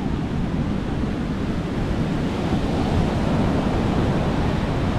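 Sea waves breaking and washing on a beach, a steady surf with a slight swell in the middle, with wind rumbling on the microphone.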